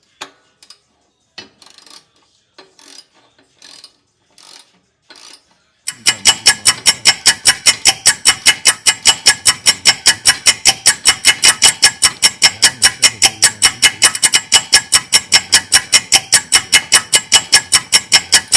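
Ratchet wrench clicking hard and evenly, about five sharp metallic clicks a second, loosening exhaust bolts. It starts suddenly about six seconds in, after a few faint taps of tools.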